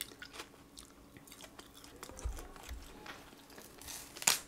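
Close-up chewing of raw green onion dipped in ketchup: soft wet mouth clicks and crunching, with one sharp crunch near the end.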